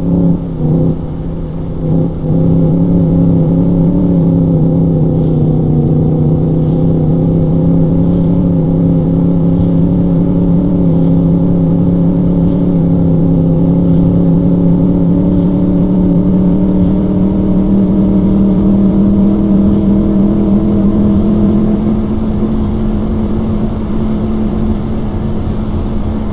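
Motorbike engine running steadily under way, its pitch creeping slowly higher as it gains speed.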